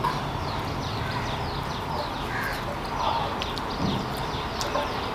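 Birds chirping outside in a rapid run of short falling chirps, over a steady low hum, with soft chewing and mouth sounds from someone eating a saucy chicken drumstick.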